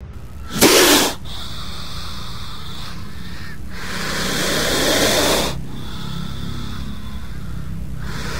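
Cobra hissing: a short, sharp, loud hiss about half a second in, then a longer hiss that swells and stops around the middle, and another starting near the end, over a steady low hum.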